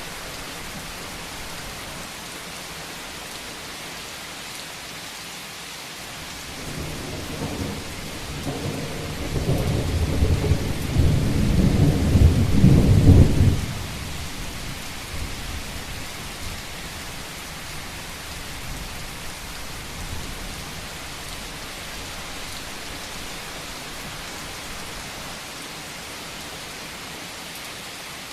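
Steady heavy rain on a roof, with a rumble of thunder that builds about a quarter of the way in, peaks, and breaks off suddenly just before the halfway point.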